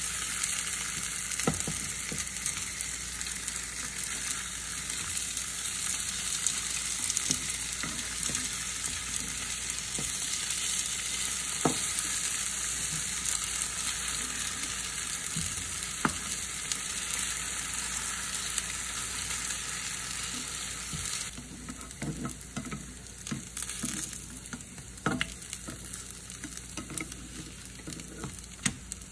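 Potato pancakes sizzling steadily in a nonstick frying pan, with a spatula scraping and clicking against the pan as they are turned. The sizzle drops off sharply about three-quarters of the way through, leaving a quieter sizzle and more spatula clicks.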